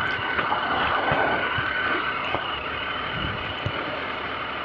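Triumph Sprint RS 955i three-cylinder motorcycle being ridden: a steady rush of wind noise with the engine running underneath.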